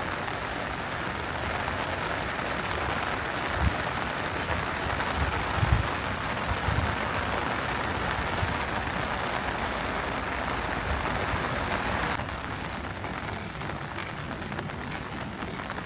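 Steady rain falling on hard surfaces, a dense even hiss that becomes quieter about twelve seconds in, with a few low thumps in the first half.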